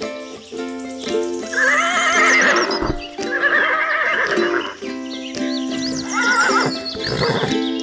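A horse whinnying three times, shaky, quavering calls over steady background music.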